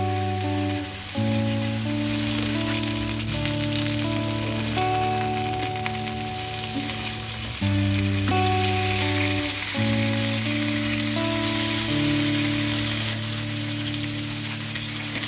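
Honey-glazed chicken pieces sizzling in a nonstick frying pan, a steady frying hiss, under background music of slow held notes.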